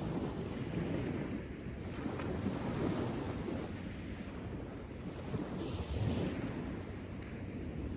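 Wind buffeting the microphone: a low rumbling noise that rises and falls in gusts every few seconds.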